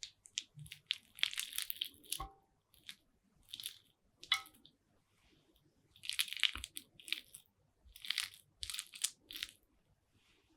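Chicken salad with cream cheese being worked with a spoon in a bowl: a series of short, wet, crunchy strokes, with a spoon clinking against the bowl twice.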